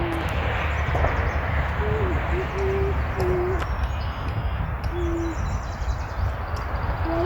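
Low hooting bird calls: a few short, steady notes, one sliding down about two seconds in and one rising near the end, over a steady low rumble.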